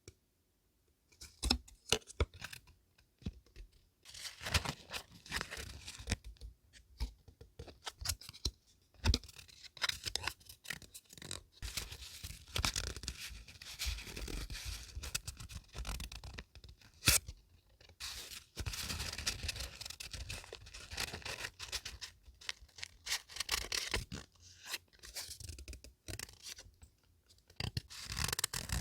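Close-up scrapbooking paper sounds: sheets and paper pieces being handled and worked by hand, in irregular rustling strokes with sharp clicks and short pauses.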